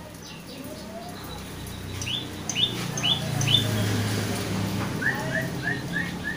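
A bird chirping in quick series of short rising notes: four higher chirps in a row near the middle, then five lower ones near the end, over a low hum.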